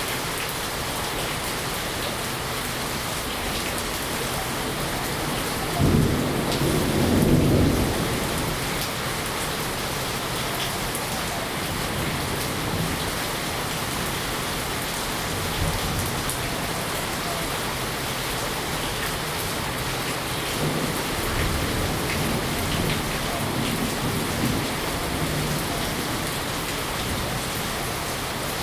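Steady heavy rain hissing throughout, with a low rumble of thunder about six seconds in lasting around two seconds, and fainter rumbles later on.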